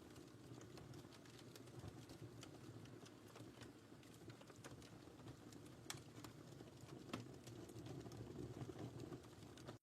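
Wood fire crackling: irregular small pops and snaps over a soft, steady low rush of burning, with two sharper pops about six and seven seconds in.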